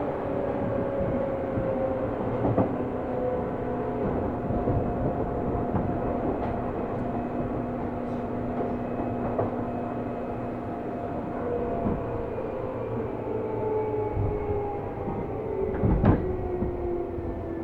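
Seibu New 2000 series electric train running, heard from inside the car: steady rumble of wheels on rail with motor and gear whine slowly falling in pitch as the train loses speed. Occasional knocks from the rails, the loudest about 16 seconds in.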